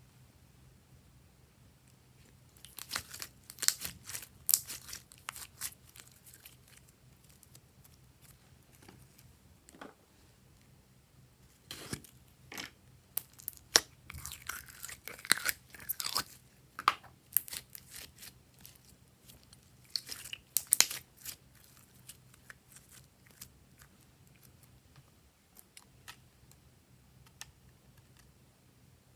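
Glossy slime being kneaded and pressed by hand: sticky clicks and crackles in three bursts, with quieter stretches between.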